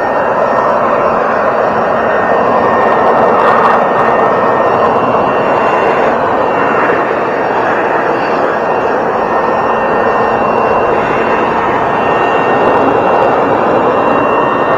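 Leaf blower running steadily at full blast, a loud rushing of air with a faint steady whine over it, drying the sprayed metal.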